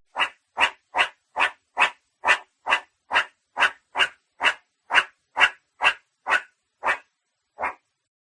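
An animal calling in a rapid, even series of short calls, about two a second, spacing out near the end and then stopping.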